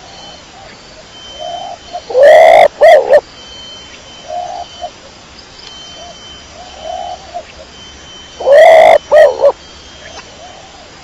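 Domestic pigeon cooing: two loud coos, about two seconds in and again near the end, each in two or three parts, with softer short coos between.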